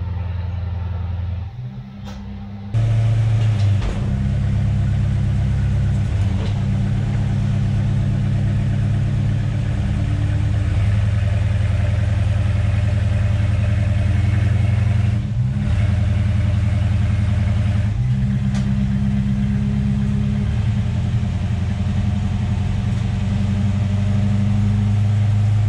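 1970 Dodge Coronet 440's 318 small-block V8 idling steadily, getting louder about three seconds in.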